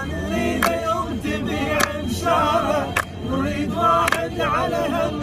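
A young man singing an Iraqi song unaccompanied, with wavering, ornamented held notes, over sharp clap-like beats about once a second.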